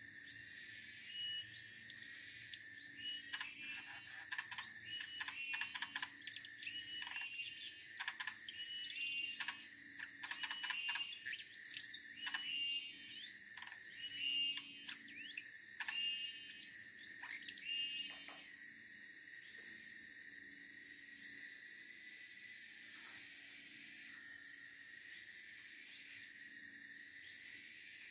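Siberian blue robin song: a busy run of short high chirps and quick up-and-down whistled notes, thick through the first two-thirds and thinning to scattered phrases near the end, over a steady high hiss.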